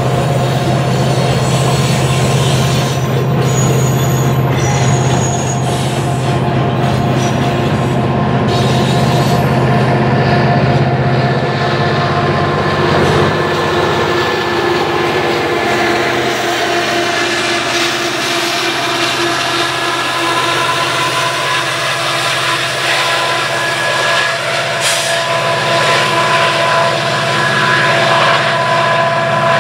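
Double-stack intermodal freight train rolling past close by: continuous rumble and clatter of the container cars, with wheels squealing in steady high tones. Near the end a Union Pacific diesel locomotive in the train comes by and its engine rumble builds.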